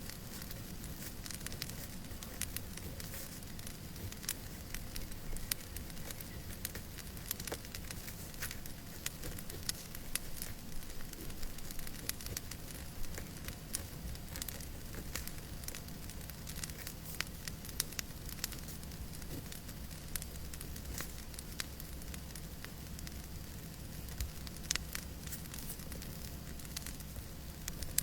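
Fireplace crackling: irregular sharp pops and snaps over a steady low rumble and hiss of the fire.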